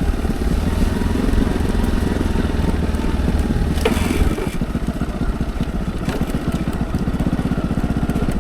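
Motorcycle engine running under way, with a steady rapid beat of firing pulses. About four seconds in there is a brief clack, and the heavy low rumble drops off.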